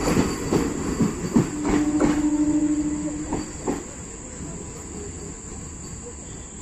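ICF three-phase MEMU electric train pulling out, its wheels knocking over rail joints as the last coach passes. A steady tone is heard for a couple of seconds. The train sound then fades to a low background as it draws away.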